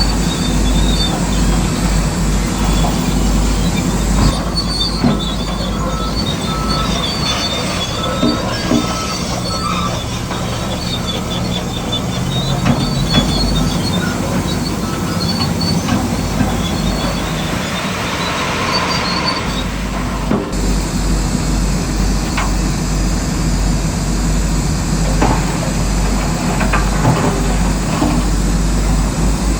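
Heavy earthmoving machinery running steadily, with high metallic squeals and scattered clanks. The sound changes abruptly twice.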